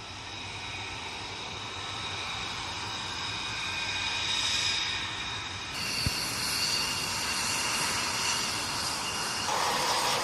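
Military jet engines whining and rushing steadily, growing slowly louder over the first few seconds. The whine changes abruptly about six seconds in and again near the end, with a short knock just after the first change.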